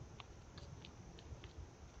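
Faint outdoor background noise with a low rumble and a scattering of short, high ticks, about three or four a second.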